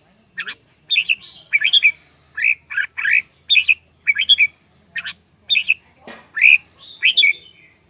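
Red-whiskered bulbul (chào mào) calling in a rapid series of short, loud, chirping notes, about two a second.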